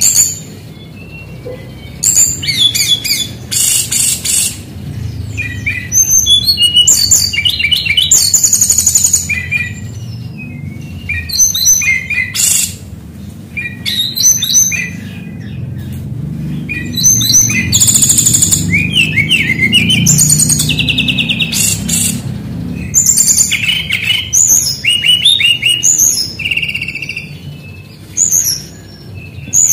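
Brown-chested jungle flycatcher (sikatan rimba dada coklat) singing a loud, varied song of quick chirps, rapid trills and sliding whistles in bursts with short pauses between them, mixing in phrases imitated from other birds' songs.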